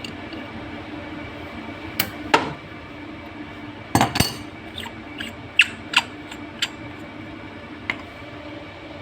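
Tools and metal parts clinking and knocking, about eight sharp strikes at uneven intervals, the loudest pair about four seconds in, over a steady machine hum.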